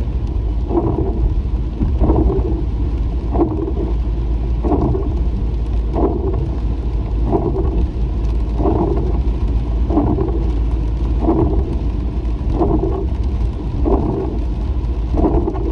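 Inside a moving car in the rain: windshield wipers sweeping back and forth, one stroke about every 1.3 seconds, over a steady low road rumble and rain on the car.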